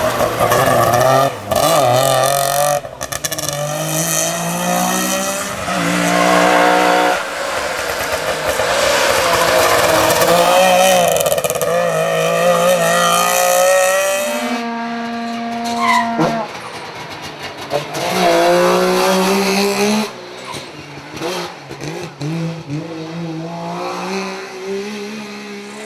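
Wartburg rally cars' three-cylinder two-stroke engines revving hard as they pass, climbing in pitch and dropping back over and over as the drivers change gear, across several separate runs.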